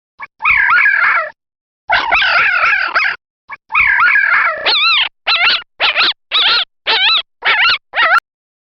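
A dog whining and yelping: three longer wavering whines, then a quick run of about seven short yelps that stops abruptly.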